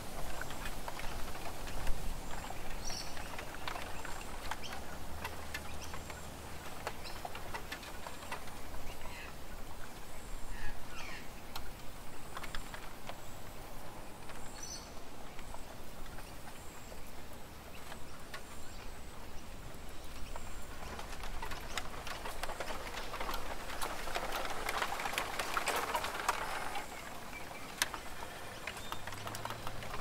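Backyard birds giving a few short, scattered calls over steady outdoor background noise, with many light ticks throughout. A broad rush of noise swells in about two-thirds of the way through and fades near the end.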